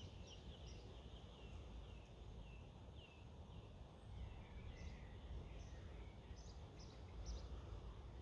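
Faint birdsong: a string of short falling chirps, about two a second, over a low steady rumble.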